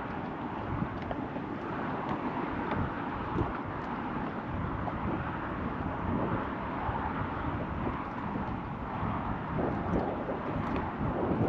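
Steady wind noise buffeting the microphone, with a few faint clicks.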